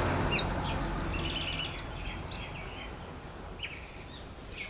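A gust of wind rumbling on the microphone and dying away, with birds chirping in short calls several times throughout.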